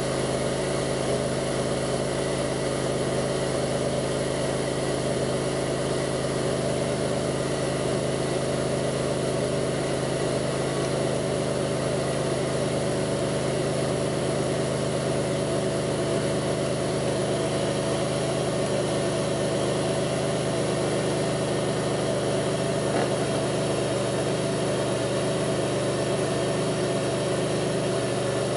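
2002 Pontiac Grand Prix's 3800 V6 idling steadily. The owner reports a rough idle with faint, intermittent thumping that pulls the idle down.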